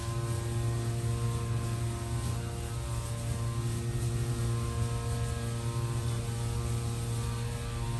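Steady electrical hum: a low tone with a ladder of even, unchanging overtones above it.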